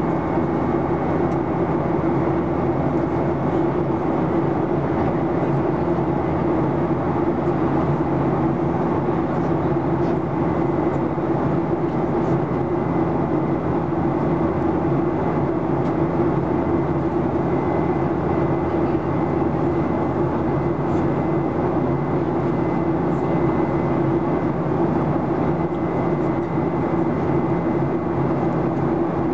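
Steady cabin drone inside a Boeing 737-800 in flight: engine and airflow noise with a constant low hum and a faint steady high tone.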